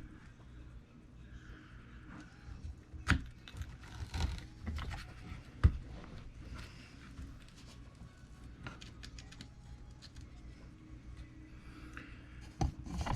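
Scattered light clicks and knocks of small parts and tools being handled during RC truck reassembly, with one sharp knock about five and a half seconds in.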